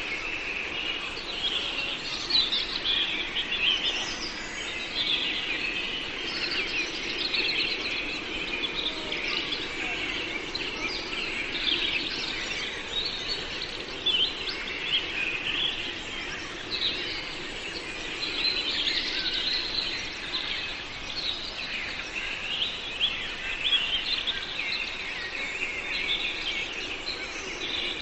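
Many small birds chirping and twittering at once in a dense, unbroken chorus of short high chirps.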